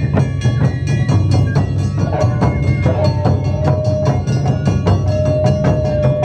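Live Japanese taiko drumming: rapid, dense strikes on large drums, with a melody of held high notes over the drumming.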